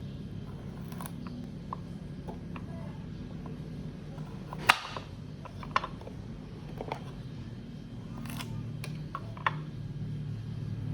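Scattered light clicks and taps of objects being handled, with one sharper knock about halfway through and a brief rustle later, over a low steady hum.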